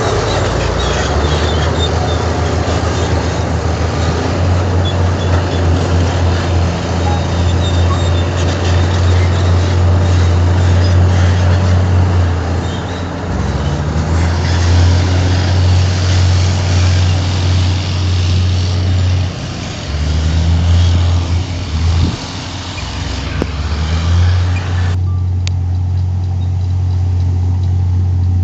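Heavy diesel earthmoving machinery running under load, its low engine drone dipping and swelling as the load changes, with a rattling, clattering noise over it. Near the end the rattle and hiss cut away suddenly, leaving the engine drone.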